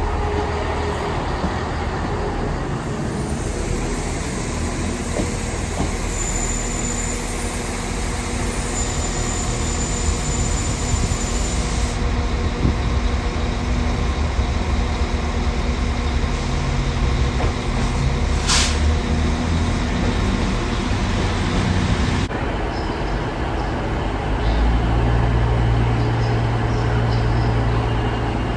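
Train standing at a station platform with its engines running, a steady low drone. A short sharp hiss about eighteen seconds in.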